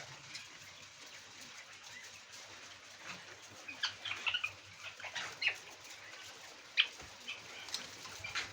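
A flock of laying quails calling: short, high chirps scattered throughout, coming more often after the first few seconds, with one sharper, louder call late on.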